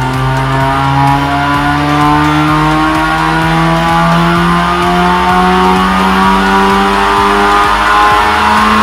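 Supercharged 2.4-litre 4G69 four-cylinder of a Mitsubishi Eclipse at full throttle on a chassis dyno during a power pull. The engine is loud, and its pitch climbs slowly and steadily as the revs rise.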